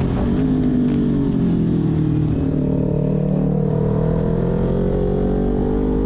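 Kawasaki Ninja 400 parallel-twin engine under way. Its revs drop sharply at the start, sink for about two seconds off the throttle, then climb steadily as the bike accelerates.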